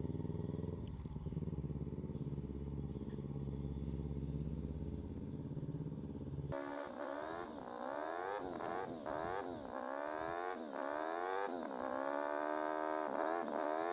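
Kawasaki Ninja 300 parallel-twin engine running steadily at low revs in first gear. About six and a half seconds in, after a cut, the revs rise and fall over and over as the throttle is opened and let go.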